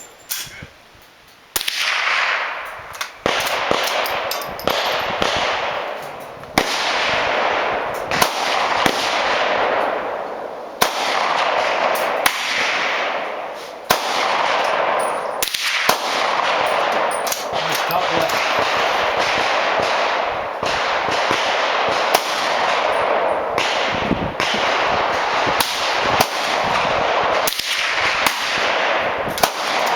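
.22 rifle shots fired one after another at a gun range, a sharp report every second or two, each trailing off in a long echo.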